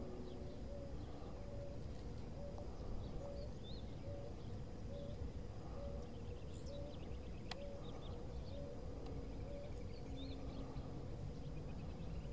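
Outdoor birdsong over a steady low rumble: a short low note repeated about twice a second, with scattered higher chirps and a couple of brief trills.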